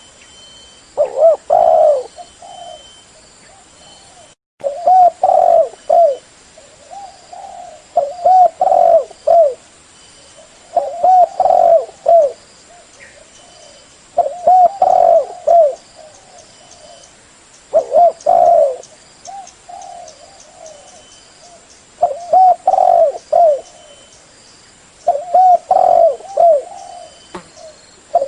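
Spotted dove (terkuku) cooing: a phrase of several low coos repeated about every three to four seconds.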